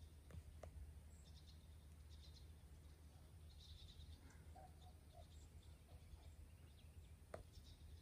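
Near silence outdoors: faint, distant bird calls with a steady low rumble and a few soft clicks near the start and end.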